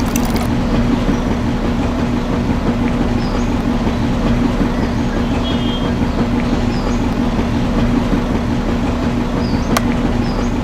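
A small motor running steadily with a constant hum, with faint bird chirps now and then and a single sharp click near the end.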